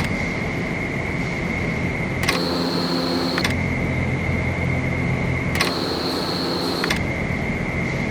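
Vertical wind tunnel running: a steady rush of air with a high whine from the fans, the sound shifting abruptly a few times.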